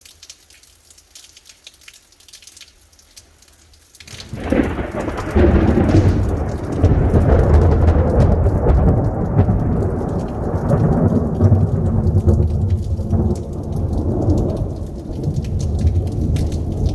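Light rain pattering, then about four seconds in a sudden loud crack of thunder that rolls on as a long deep rumble, slowly easing.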